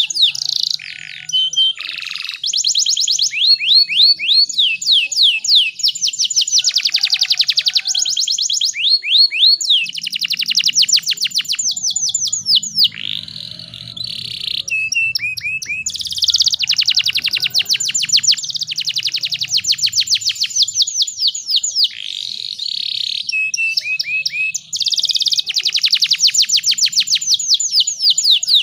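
Domestic canary singing a long, fast song of rapid trills and rolls, strings of quick sweeping notes repeated phrase after phrase with only brief breaks.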